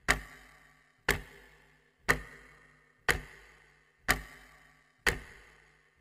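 Clock-tick sound effect: one sharp tick a second, each dying away quickly.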